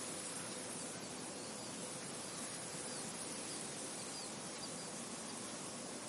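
Wind blowing steadily through a field, an even hiss, with a few faint, short high bird chirps around the middle.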